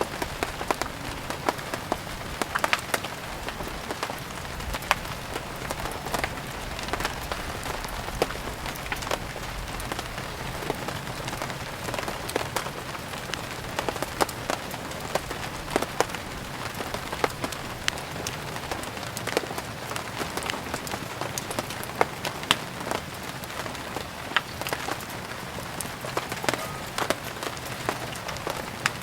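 Steady rain falling on a surface, a continuous hiss dotted with many scattered sharp pops and drips.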